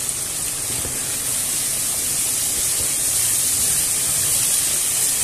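Chorizo, onion and red and green peppers sizzling in olive oil in a frying pan, a steady hiss, with a kitchen extractor fan running.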